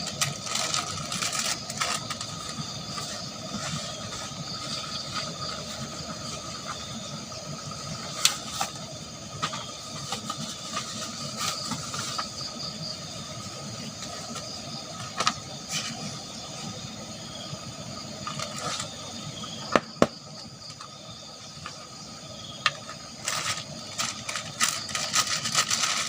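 Steady forest background of several high, even, chirring tones, broken by a few scattered sharp clicks or cracks.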